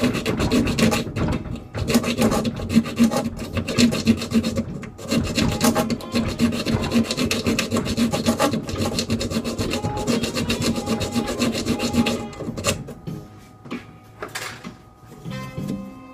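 A bare hacksaw blade, worked by hand, rasps back and forth in quick short strokes as it cuts a screwdriver slot into the head of a stripped Allen head bolt. The sawing stops about twelve seconds in.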